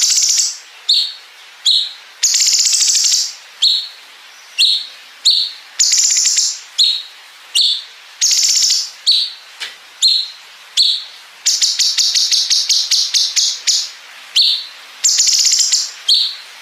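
Cucak cungkok singing a masteran song: short high chirps alternate with long, very rapid buzzing 'bren' trills of one to two seconds each. Midway there is a longer run of quick separate pulses.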